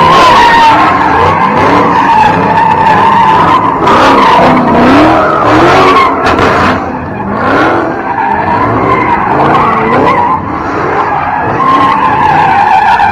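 Car tyres squealing in a long, continuous, wavering screech as a car spins its wheels in a burnout, with engine pitch rising and falling underneath.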